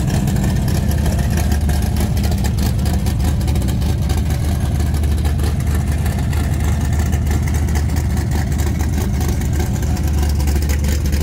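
Loud car engine idling with a steady low rumble.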